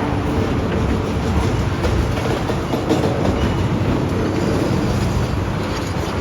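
Heavy demolition machinery at work: a steady low engine rumble mixed with a dense, continuous clatter of breaking and shifting debris.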